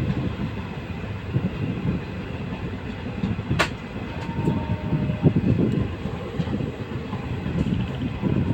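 Wheels of an LHB passenger coach running on the rails: a steady rumble with irregular knocks, and one sharp click about three and a half seconds in.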